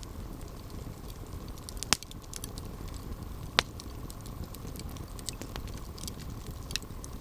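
Campfire burning with a steady low rumble and scattered small crackles, with two loud sharp pops about two seconds and three and a half seconds in.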